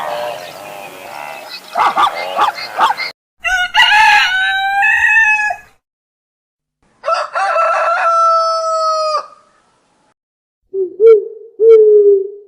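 Rooster crowing twice, each crow about two seconds long with a short gap between them. Near the end, short low hooting calls begin.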